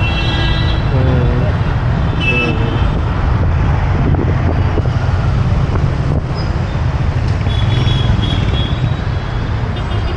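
Motorbike ride through dense city traffic: steady engine and road rumble throughout, with vehicle horns honking briefly about two seconds in and again around eight seconds.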